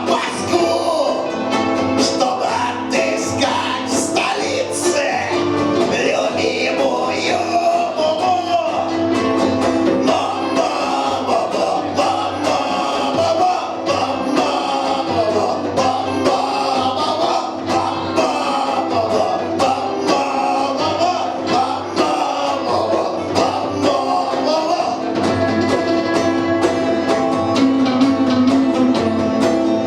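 Live punk band playing a song, with singing over the instruments.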